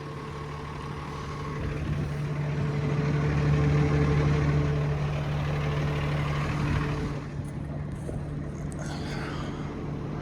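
Kenworth T270 dump truck's 8.3-litre PACCAR (Cummins) diesel idling with a steady low hum. A rushing noise swells over the first few seconds and drops off about seven seconds in.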